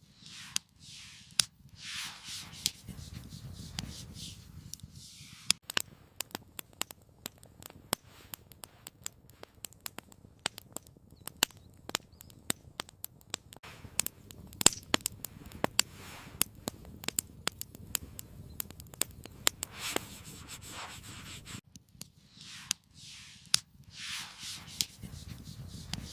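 Campfire crackling, with many sharp irregular pops and snaps, busiest in the middle, and soft rushing swells of noise near the start and again near the end.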